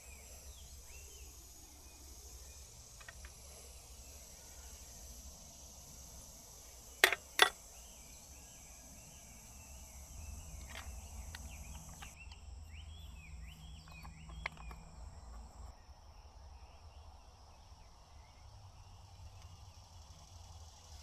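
Bush ambience of steady high insect trilling with scattered short chirps. Two sharp cracks come close together about seven seconds in. Part of the insect trilling drops out about halfway through.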